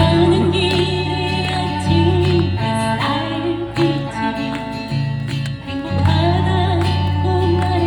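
Live music: a guitar-led band with held bass notes, and a voice singing a slow Korean pop song.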